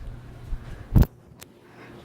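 A single sharp knock about a second in, with a fainter click shortly after, over a faint low hum.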